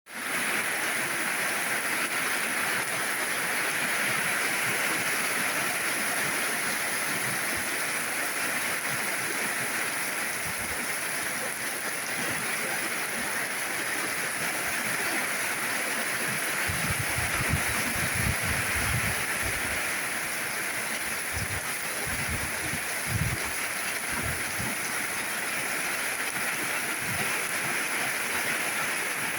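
Steady heavy rain falling. A few low thumps come in the second half.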